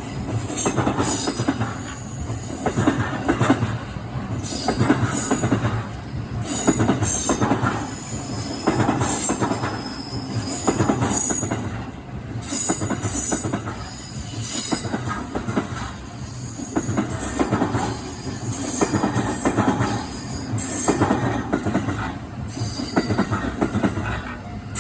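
A Shōnan–Shinjuku Line commuter train rolls slowly past, its steel wheels rumbling and squealing on the rails. The sound swells and fades about every two seconds as each car's wheels go by.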